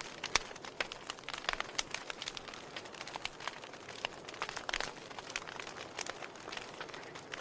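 Fire burning steadily, a low hiss under frequent irregular crackles and sharp pops from the burning wood.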